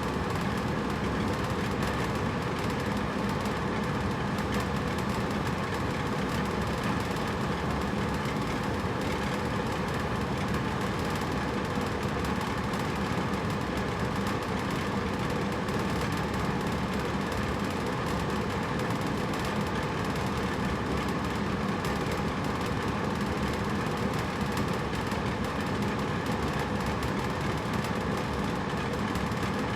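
Hotel room air conditioner running steadily: an even rush of air with a low hum and a few faint steady tones above it, unchanging throughout.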